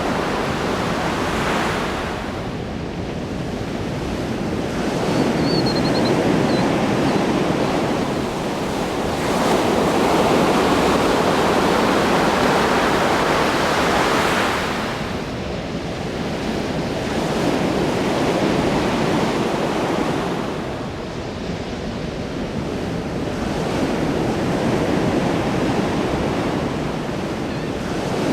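Ocean waves breaking and washing in, the surf swelling and easing in slow surges every several seconds.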